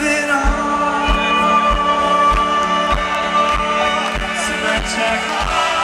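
Indie rock band playing live, with singing over sustained held tones and a steady kick drum beat, about one and a half beats a second.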